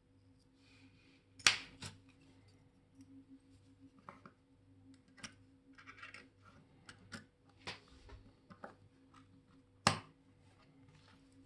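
Small metal clicks and taps of watchmaker's tools and parts at the bench, scattered and irregular, with two sharper, louder clicks about a second and a half in and again near the end.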